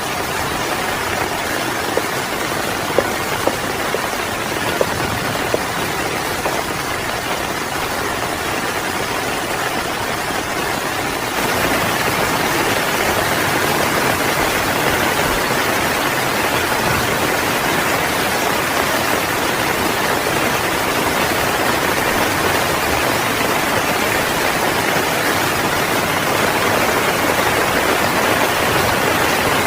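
Heavy rain falling steadily, with a few sharp ticks in the first seconds. About eleven seconds in, the rain abruptly becomes louder and fuller.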